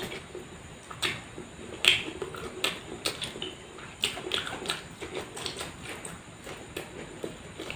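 A person chewing food close to the microphone, with irregular sharp mouth clicks and smacks.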